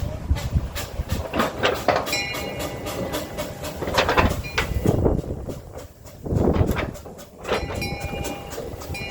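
A light railway train running along the track, with uneven clattering and knocking.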